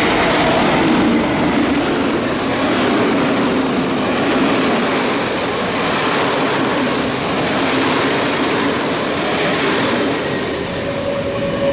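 A train running past close by: a loud, steady rush of wheels on rails, with a faint squealing tone creeping in near the end.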